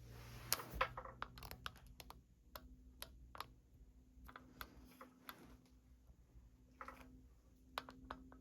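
Casablanca Delta III ceiling fan starting up on its low speed. A faint steady motor hum sets in after about a second and a half, under scattered light clicks and taps.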